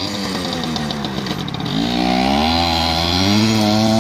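Yamaha PW80's small two-stroke single-cylinder engine revving up. Its pitch climbs about two seconds in and holds high near the end.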